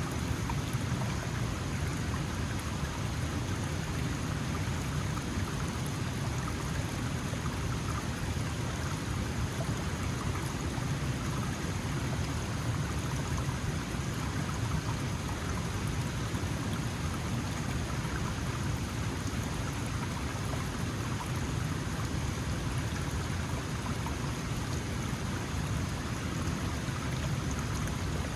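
Small mountain stream flowing, a steady, even water noise with no breaks or changes.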